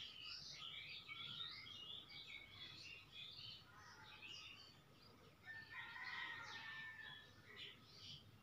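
Faint bird chirping: many short, high chirps throughout, with one longer held call from about five and a half to seven seconds in.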